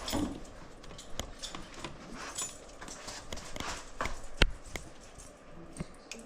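A dog moving about, with light jingling and scattered irregular clicks, and one sharp knock a little over four seconds in.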